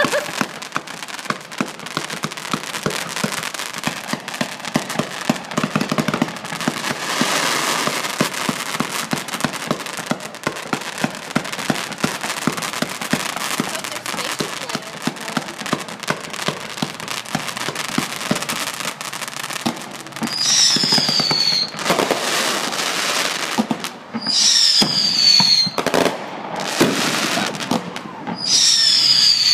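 Fireworks going off: a dense, continuous crackle of small reports, then three whistling fireworks in the last third, each a high whistle falling in pitch, about four seconds apart.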